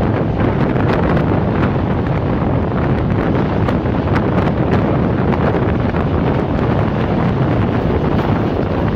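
Wind buffeting the microphone held out of a passenger train running at speed, over the steady rumble of the coach's wheels on the track.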